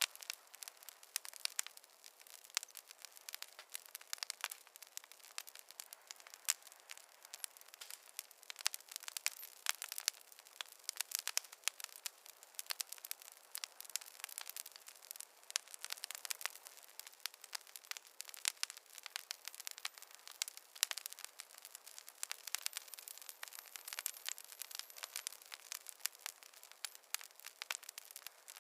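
Fire crackling in a fireplace: a dense run of small sharp pops and snaps at irregular intervals, thin and without any low rumble.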